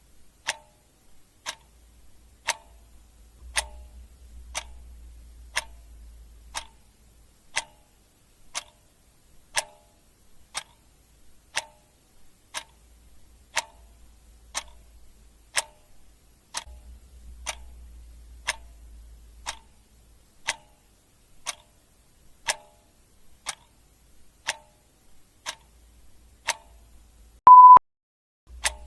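Clock ticking steadily, about one tick a second. Near the end comes one short, high beep, louder than the ticks.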